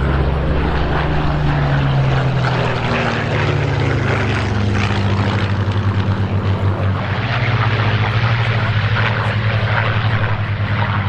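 Piston-engined propeller aircraft flying past with a steady, pulsing engine drone; the engine note drops slightly in pitch over the first few seconds.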